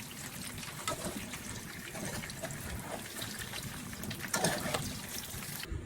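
Water trickling and splashing, with many small clicks and knocks. It cuts off suddenly near the end.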